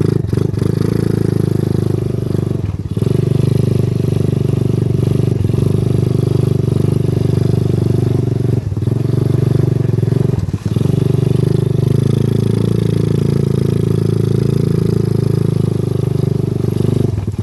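A 125cc single-cylinder clone engine in a quad ATV, running steadily as the quad is ridden slowly. Its note dips briefly three times, about 3, 9 and 10.5 seconds in.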